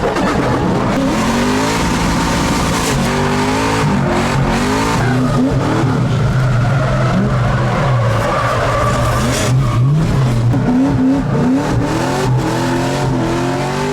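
LS3 V8 in a Miata being driven hard while drifting, its engine revving up and dropping back over and over, with tyres squealing on the pavement.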